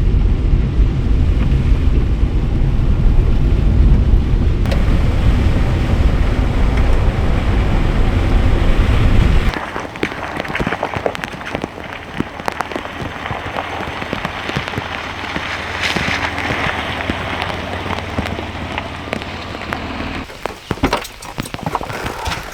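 Rain falling. For the first nine seconds or so it comes with a loud, deep rumble, which cuts off suddenly. After that it is a lighter patter of many separate drops striking a surface.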